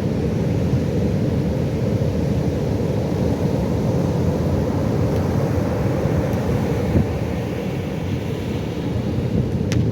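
Pacific Ocean surf, a steady low rumble of waves breaking, with a faint click near the end.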